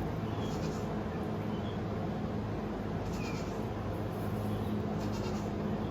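A steady low hum runs throughout, with a few faint, short high squeaks over it.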